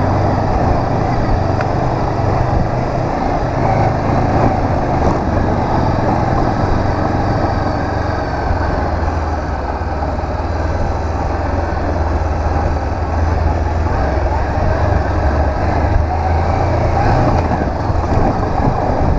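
Honda CB 500X's parallel-twin engine running steadily at low revs while the bike is ridden, its low hum under a steady rush of riding noise.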